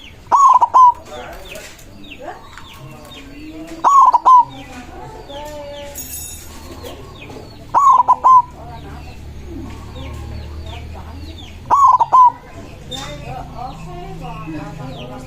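White zebra dove (perkutut) singing its cooing song: a short phrase of a few quick coos, repeated four times about every four seconds. Faint chirping of other small birds goes on between the phrases.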